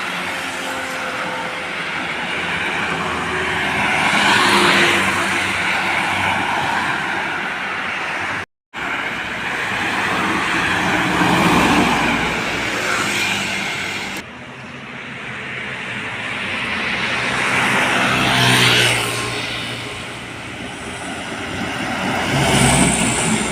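Trucks and buses passing on a road, one after another, each one swelling and fading as it goes by. The sound drops out completely for a moment about eight and a half seconds in and changes abruptly a few seconds later.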